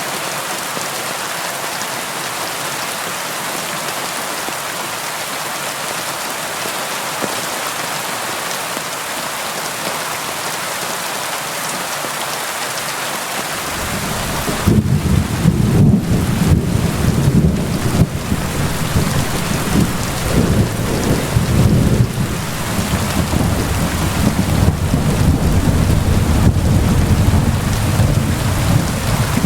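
Steady rain falling, an even hiss. About 14 seconds in, a long low rumble of thunder sets in and goes on rolling, rising and falling, beneath the rain.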